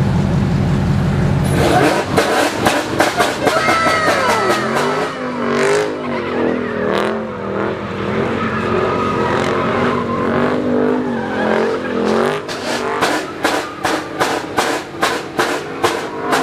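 Car engine revving hard, its pitch rising and falling, with tires squealing, typical of a burnout or donuts in a pit. Over the last few seconds the engine pulses in quick, even surges.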